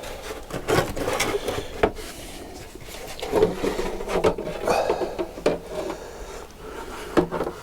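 A motorcycle's front mudguard being worked free and lifted out from between the fork legs: irregular scraping and rubbing with sharp knocks and clicks.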